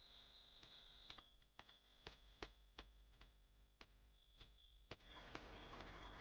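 Near silence with faint, irregular sharp clicks, about a dozen in all, and a faint high steady tone that comes and goes.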